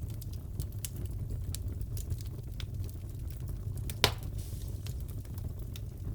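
Wood fire crackling in a fireplace: a low steady rumble of flames with irregular small crackles, and one louder pop about four seconds in.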